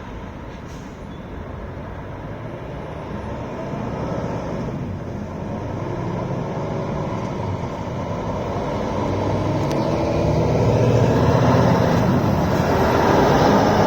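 Scania R580 truck's V8 engine running under way, growing steadily louder as the truck draws near and loudest near the end.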